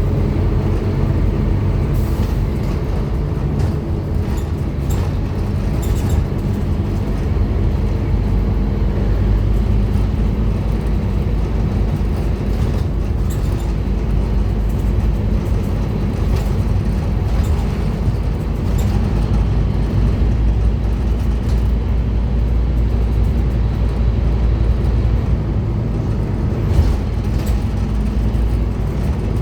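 Scania N230UD Omnicity double-deck bus's five-cylinder diesel engine running steadily under way, with occasional short knocks and rattles.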